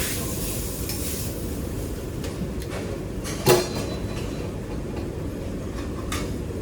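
Kitchen clatter over a steady low background noise: one sharp clink of kitchenware about three and a half seconds in, with a few lighter clicks before and after.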